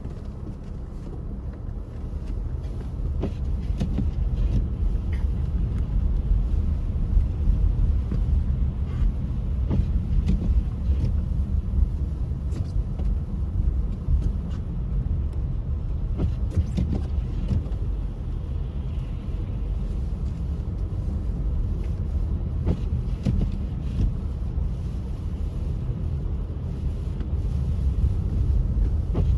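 Car driving on a snowy road: a steady low rumble of engine and tyres, with scattered light clicks and ticks.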